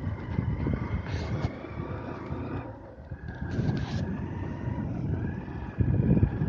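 Motor vehicle engine, most likely a motorcycle, running steadily with a low noisy rumble and a thin whine that drops a little in pitch about three seconds in.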